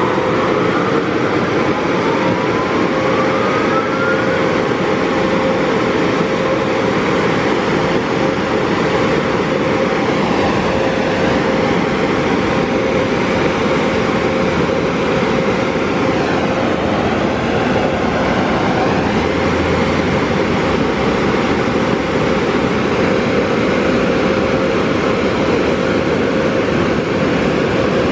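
Car wash air-dryer blowers running, heard from inside the car: a loud steady rush of air with a constant whine, plus rising whines in the first few seconds as the blowers spin up.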